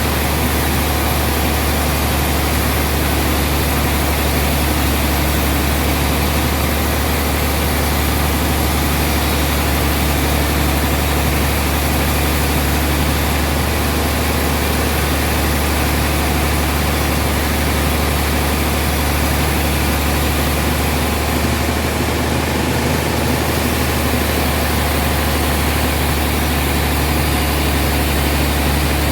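Sawmill machinery running steadily, a loud, even, low drone with a hiss above it that does not change.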